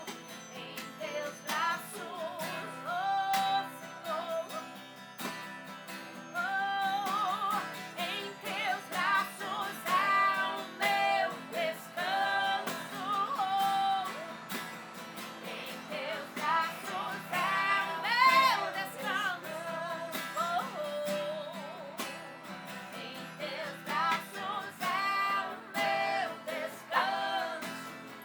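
A voice singing a worship song to strummed acoustic guitar.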